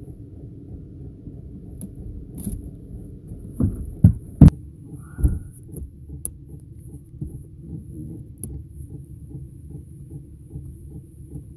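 Diesel air heater running: a steady low hum, with its fuel pump ticking about twice a second. A few loud knocks come in quick succession a little under halfway through.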